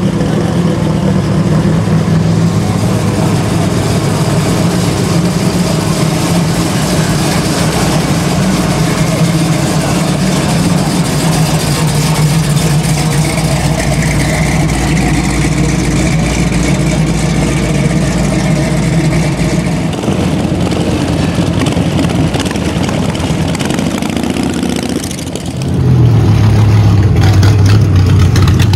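V8 muscle car engines running at low speed with a steady, deep exhaust note as cars roll out. About three seconds before the end the sound dips briefly, then a louder, deeper engine takes over.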